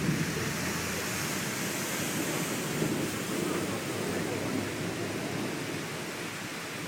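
Steady rushing hiss of heavy rain in a thunderstorm, slightly softer near the end.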